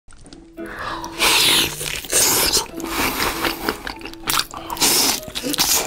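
Close-miked chewing and biting of soft braised pork belly and fried food, with loud wet mouth noises in several separate bursts.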